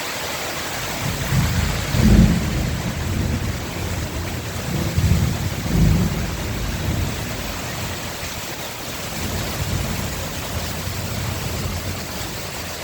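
Heavy rain pouring steadily, with low rumbles swelling several times, loudest about two seconds in and again around five to six seconds.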